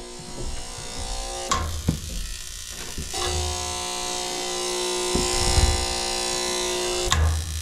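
Old gas furnace trying to start. A motor in the furnace gives a steady electric buzz at the start of the clip, drops out, then runs again from about three seconds in to near the end, with a few dull thumps. The furnace does not light, which the technician puts down to a bad gas valve.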